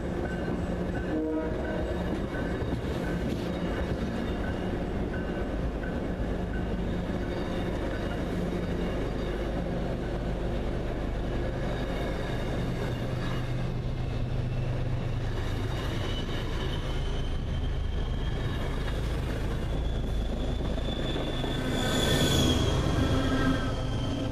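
MBTA commuter rail train of bi-level coaches departing and rolling past at close range: a steady rumble of wheels on rail, with a brief louder high squeal and hiss near the end as the last car goes by.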